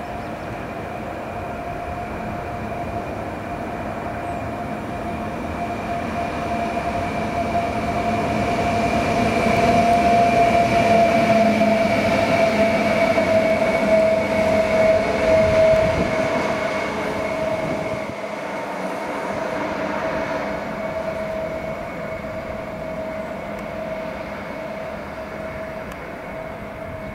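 Train passing, with two steady whining tones that drift slightly lower in pitch over a rumble. It grows louder to a peak about halfway through, then fades.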